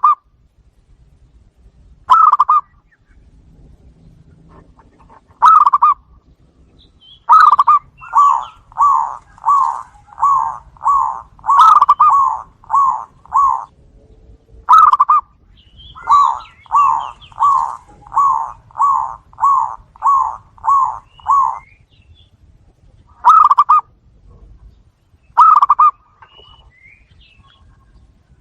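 Zebra dove (perkutut) cooing: a few single short coos spaced a couple of seconds apart, then two runs of about nine quick staccato coos, each run lasting about six seconds. Faint high chirps sound over the runs.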